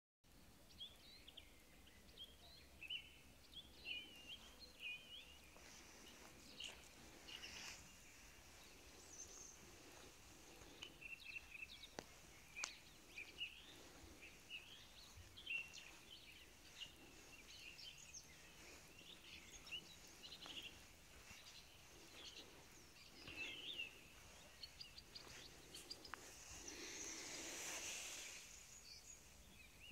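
Faint birdsong: many short chirps and trills from several birds, with a brief swell of rushing noise near the end.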